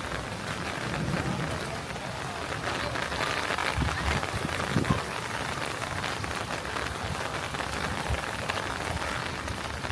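Heavy rain falling steadily, with a few low thumps around the middle and near the end.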